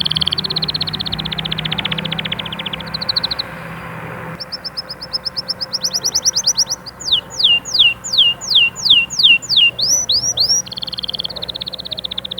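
Canary singing: long, fast trills of rapidly repeated notes, a brief pause, then a series of falling slurred whistles about two a second, and another fast trill near the end.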